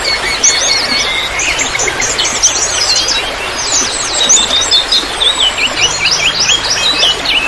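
Several small birds chirping and twittering in quick, overlapping sweeping notes, over a steady trickle of water.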